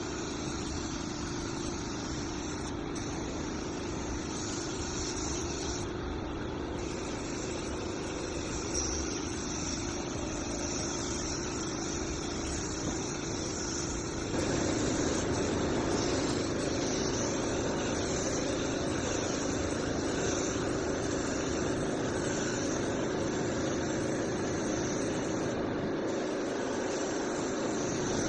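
Steady mechanical running noise with a constant high hiss, stepping up louder about halfway through.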